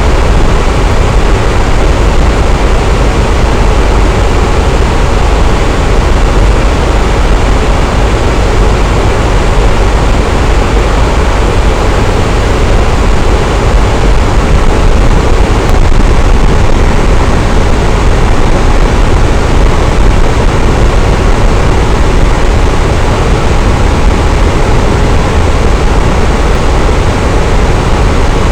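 Electric fan running steadily at a constant speed: an even, loud whoosh of moving air with a deep low rumble and a faint motor hum, no change throughout.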